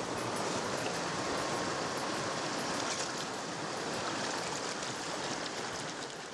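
Steady rush of flowing water, easing off slightly near the end.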